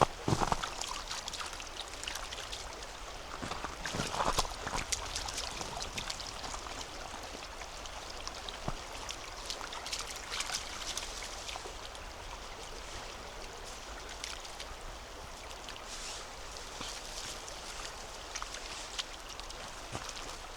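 Mountain river flowing steadily, a continuous rush of water. A few footsteps on compacted snow land right at the start and again around four seconds in.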